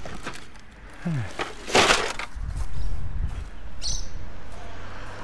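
Hard rubbish being handled: a loud crack and crash just before two seconds in, then a steady low rumble with a brief squeak near the end.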